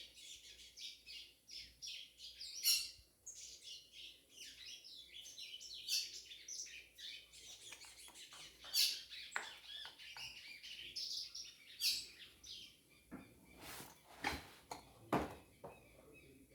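Small birds chirping and twittering over and over in quick high notes, with a few sharp clicks or knocks scattered through, several close together near the end.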